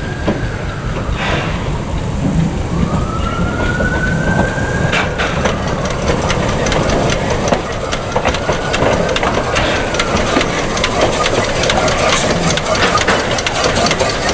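A narrow-gauge train's wheels squealing on curved track: a high tone rises and falls three times, over the rumble and clatter of the running train and rain.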